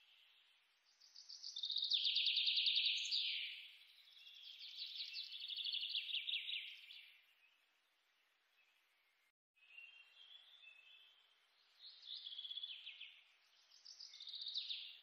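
Birds chirping: several bursts of rapid trilled calls a few seconds long, some ending in a falling note, over a faint hiss. The sound cuts out briefly about halfway through.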